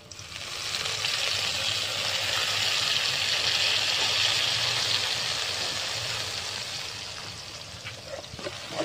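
Fish sauce poured into hot oil with frying shallots and garlic sizzles loudly. The sizzle swells over the first few seconds, then slowly dies down. A spatula stirs in the pan near the end.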